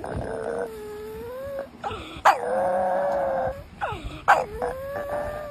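A dog howling: three long, held calls, each starting abruptly.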